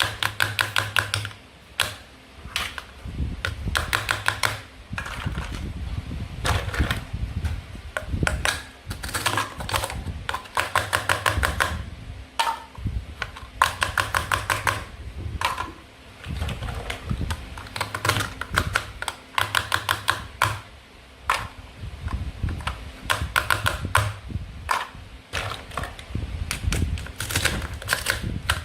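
Toy fruit and vegetables from a plastic play-food set being cut with a toy knife: repeated bursts of rapid, crackly clicking, one after another with short pauses.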